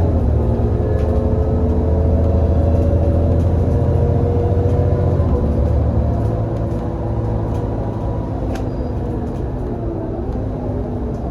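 Irisbus Citelis 18 GNC bus's gas-fuelled Iveco Cursor 8 six-cylinder engine and ZF Ecomat automatic gearbox under way. The pitch drops at the very start as the gearbox changes up, then the engine pulls with a slowly rising whine. About six seconds in it eases off and the drone falls quieter.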